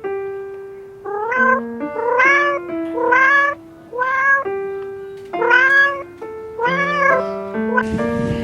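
A domestic cat meowing repeatedly, about one meow a second, each call rising in pitch, over background music with long held notes.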